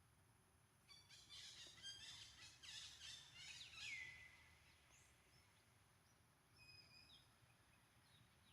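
Faint, high-pitched animal calls: a run of chirps and squeaks for about three seconds that ends in one falling squeal, then a few short chirps.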